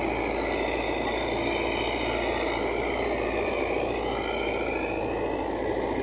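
A vehicle engine runs with a steady, even drone while driving, heard from inside among the passengers.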